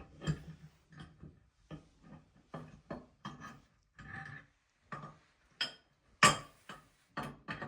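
Irregular clicks and clinks of hand tools and metal tank bolts being handled and worked on a toilet tank, with a louder knock about six seconds in.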